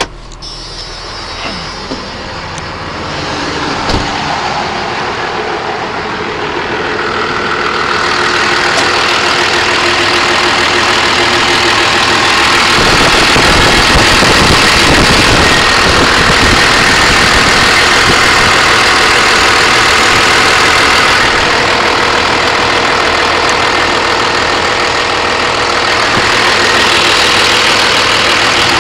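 1997 Dodge 2500's 5.9-litre Cummins inline-six turbodiesel running steadily, growing louder over the first dozen seconds and then holding even.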